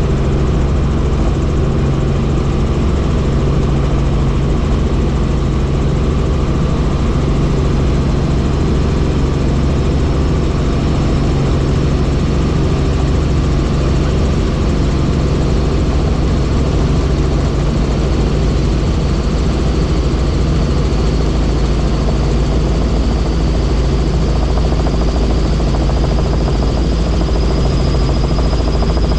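Helicopter in flight: steady, loud rotor and engine noise, with a faint high whine that creeps up in pitch near the end.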